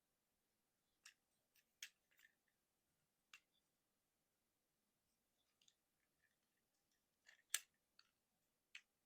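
Plastic joints and parts of a Transformers Motormaster action figure clicking and snapping as it is folded from robot mode into truck mode: about ten sharp, irregular clicks, the loudest snap a little after seven seconds in.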